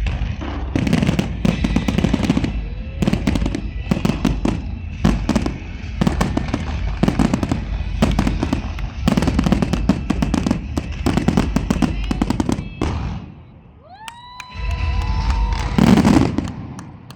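Fireworks going off in rapid volleys of bangs and crackles. About 13 seconds in there is a short lull and a rising whistle. A final burst of bangs follows and fades out near the end.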